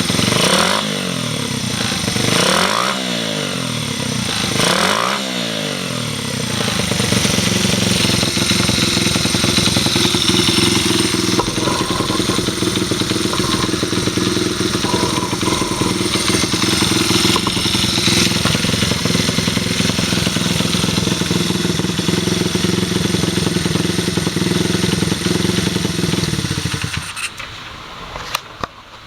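Stock Honda Ape 100 air-cooled single-cylinder four-stroke engine (HC07E) running on test: revved three times, then idling steadily, then switched off near the end.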